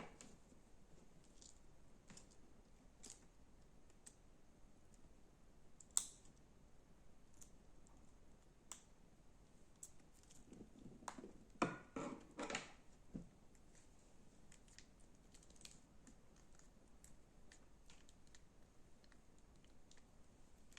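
Slime being handled: sparse faint clicks and crackles, with a sharp click about six seconds in and a short burst of crackling pops around twelve seconds.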